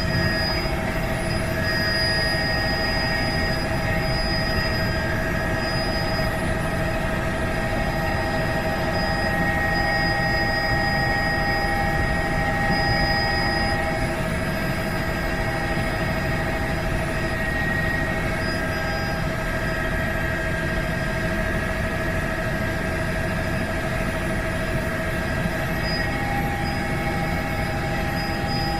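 Helicopter running steadily in flight: a constant low rumble with several steady high whines over it.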